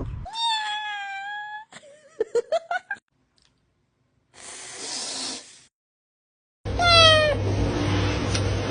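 Kittens meowing, in several short separate bits. There is a drawn-out meow about a second in, a quick run of short clicks and squeaks around two seconds, and a second-long burst of noise in the middle. Another short meow comes near the end, over a steady hum.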